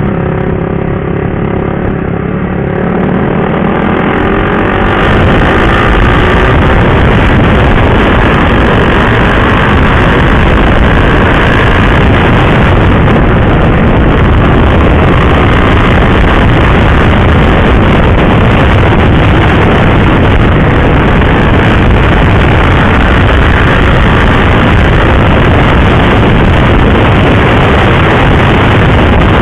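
Sport motorcycle riding at speed, its single-cylinder engine heard clearly for the first few seconds. From about five seconds in, loud, steady wind rush over the microphone buries the engine.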